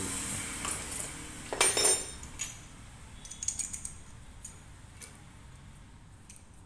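Metal parts and tools clinking and clicking during washing-machine reassembly: a louder metallic clatter with a brief ring about one and a half seconds in, followed by scattered lighter clicks and taps that grow fainter.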